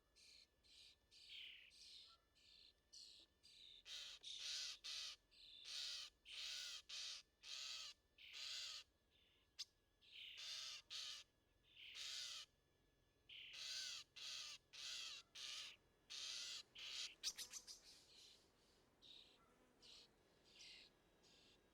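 A bird calling in a long series of short, evenly repeated notes, about two a second, ending in a quick rattle of clicks.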